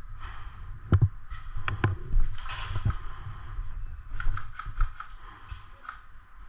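A series of sharp clicks and knocks: a few heavier knocks in the first three seconds, then a quick run of about eight lighter clicks in the middle.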